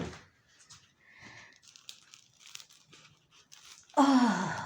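Faint crackling and crinkling as a crusty loaf of bread is handled, with short crisp rustles scattered throughout. About four seconds in, a loud, short vocal sound falling in pitch.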